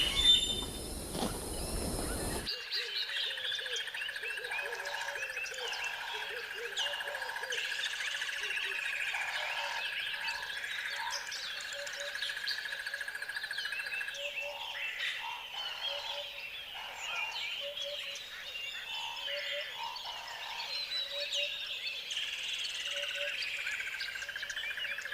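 Outdoor animal chorus: frogs croaking in a repeated slow pulse, with many birds chirping over them and a steady high trill through the first half. It begins after a loud noisy sound cuts off about two and a half seconds in.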